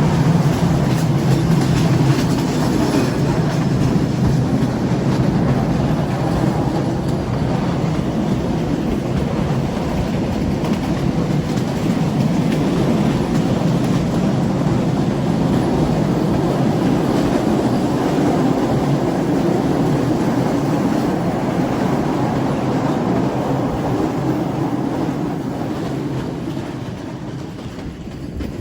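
A train running along the track, a steady low rumble of wheels and carriages on the rails that gets quieter near the end.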